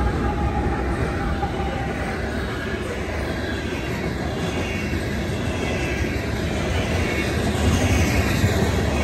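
Freight train rolling past at close range: the last diesel locomotive goes by, followed by covered hopper cars, a steady rumble of steel wheels on the rails.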